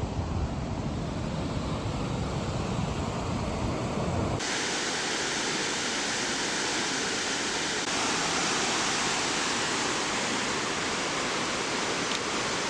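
Steady rush of fast-flowing river or creek water, a continuous roar that changes abruptly in tone about four seconds in and again about eight seconds in. The first part carries more low rumble.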